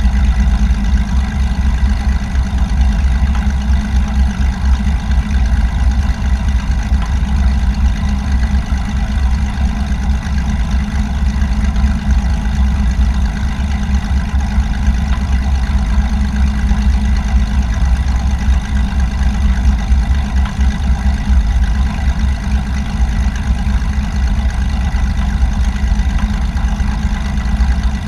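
Small airplane's engine running steadily, a loud low drone that holds an even pitch, with a faint thin whine above it.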